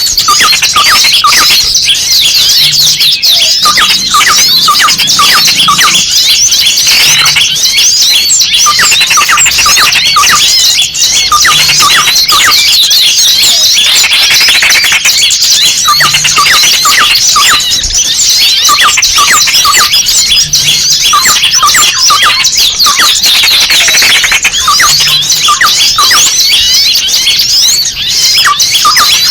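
Bird-lure recording of many small birds calling at once: a loud, unbroken flurry of rapid high chirps, squeaks and squeals. It mixes in the alarm cries of a trapped small bird, meant to draw other small birds in.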